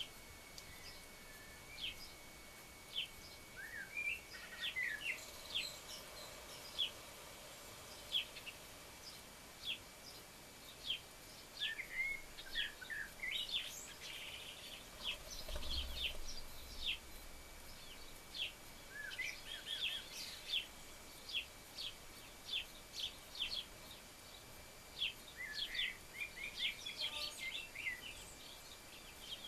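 Garden birds chirping and calling: many short, high chirps in quick, irregular succession, with a few short runs of calls.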